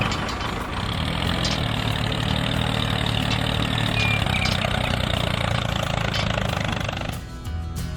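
Mini tractor engine idling steadily. Guitar music comes in near the end.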